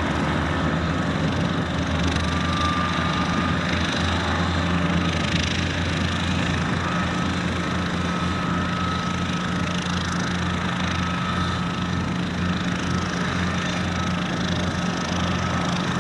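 Light aircraft piston engine and propeller running steadily at low power, with an even low drone.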